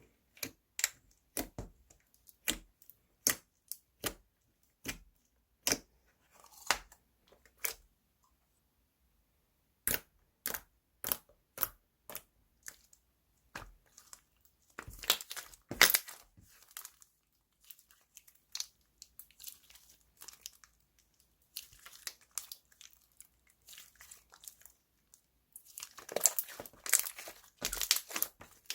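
Slime being squeezed and stretched by hand, giving sharp pops and crackles about once or twice a second, with a short pause and denser runs of crackling twice later on.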